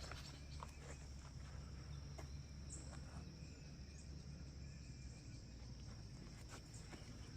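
Faint outdoor ambience of crickets or other insects trilling steadily at a high pitch, over a low steady rumble, with a few soft scattered clicks.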